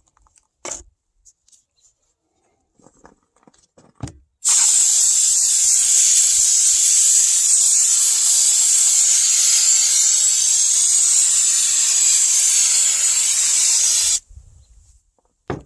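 Aerosol can of paint stripper spraying: one long, steady, loud hiss that starts about four seconds in and cuts off sharply about ten seconds later, laying a coat of stripper on a metal speaker box. A few faint taps come before it.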